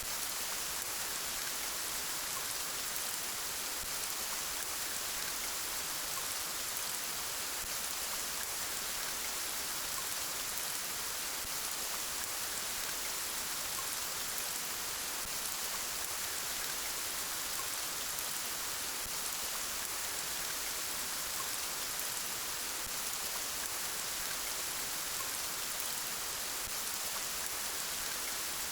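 Steady rain falling, an even hiss that holds the same level throughout with no breaks or separate events.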